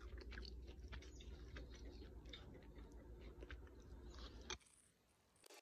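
Faint close-up chewing of crisp deep-fried pork (tangsuyuk), with many small crunches and clicks. It stops about four and a half seconds in.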